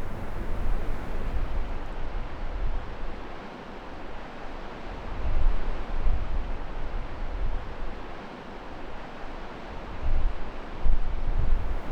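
Wind blowing across the camera microphone: a steady rushing hiss with low, uneven buffeting rumbles that swell a few times.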